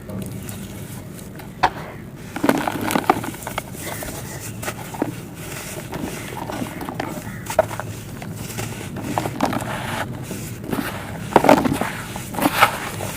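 Dried sandy clay crumbling and cracking: irregular crunches and crackles, with the loudest crunchy breaks about two and a half seconds in and again near the end, over a steady low hum.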